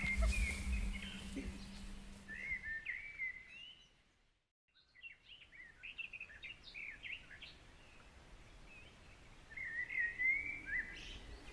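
Small birds singing in short chirping phrases over a faint background hiss; the sound fades out to silence for about a second, some four seconds in, then the chirping resumes.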